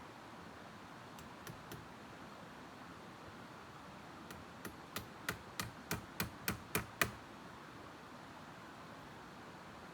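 A run of about ten sharp knocks, roughly three a second, growing louder and stopping after the loudest one, preceded by three faint clicks. A steady faint hiss lies underneath.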